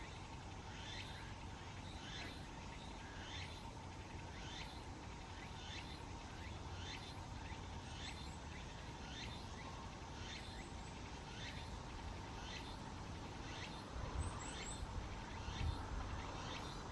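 An animal call repeated steadily about one and a half times a second, each note short and sliding down in pitch, over a steady faint hum. A few faint, very high chirps come about halfway through and again near the end.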